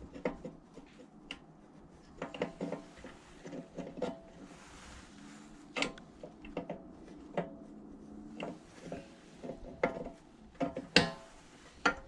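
Scattered light metallic clicks and knocks, a few with a short ring, as a camshaft is fitted into a Predator 212 engine's crankcase with the lifters pushed aside. The loudest knock comes near the end.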